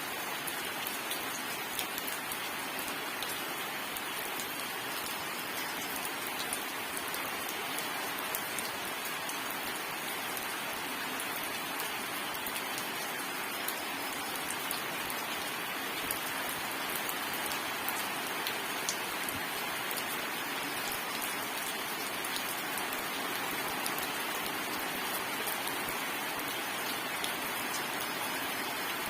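Steady rainstorm: rain falling in an even hiss, with many small sharp ticks of drops striking a surface, and no thunder.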